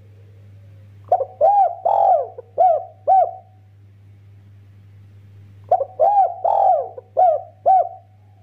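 Spotted dove (derkuku) cooing: two phrases of five quick arched coos each, one about a second in and another a little past halfway. A faint steady low hum runs underneath.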